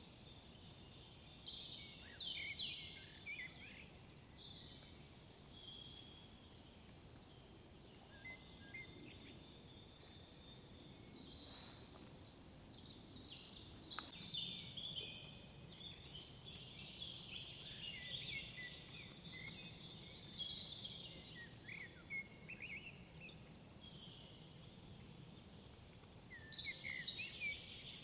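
Several songbirds singing in woodland, their songs overlapping, with a very high, thin trilled phrase that comes back three times.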